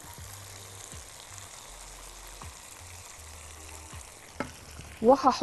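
Shrimp and vegetable filling sizzling steadily in a frying pan as tomato paste is stirred in with a silicone spatula, with a few light knocks of the spatula against the pan. A woman's voice starts near the end.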